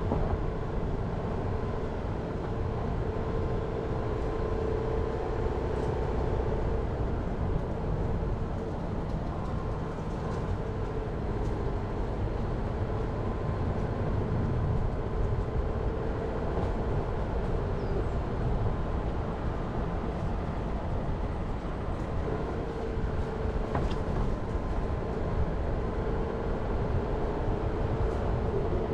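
Jeep Renegade under way: steady engine and road noise with a wavering whine running through it, and a few faint ticks.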